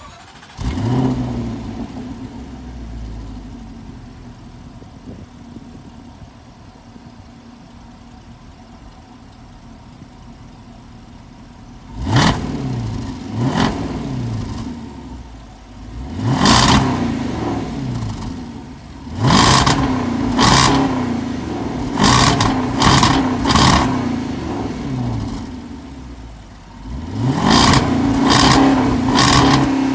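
Jaguar XJL R's supercharged 5.0-litre V8 on its stock exhaust, cold-started about a second in with a brief flare and then idling steadily. From about halfway through, it is blipped repeatedly, around ten quick revs, each dropping back to idle.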